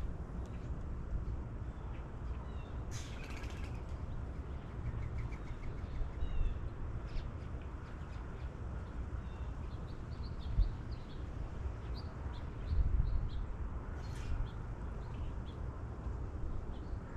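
Wild birds calling: short chirps scattered throughout, with a loud, harsh call about three seconds in and another near the end, over a steady low rumble.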